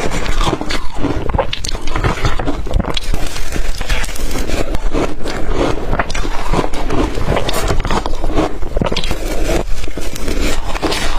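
Close-miked crunching of blender-crushed ice being bitten and chewed, a dense, unbroken run of crackling crunches.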